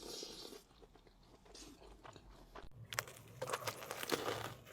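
A person eating close to the microphone: soft chewing at first, then from about three seconds in a run of sharp, crisp crunching bites.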